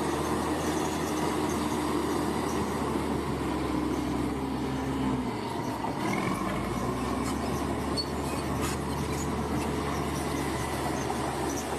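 Bulldozer's diesel engine running steadily under work, dipping briefly about halfway through, with squealing and clanking from its steel crawler tracks.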